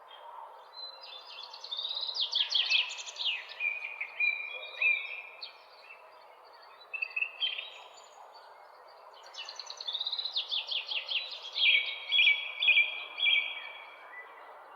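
Songbirds chirping and singing in quick, rapidly repeated notes. There are two long song phrases, one starting about two seconds in and one about nine seconds in, over a steady background hiss.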